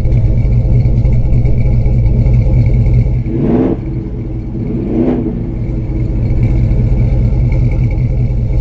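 Ford 7.3L Godzilla V8 running loud through long-tube headers and a full custom exhaust. Its pitch swings briefly twice, about three and a half and five seconds in.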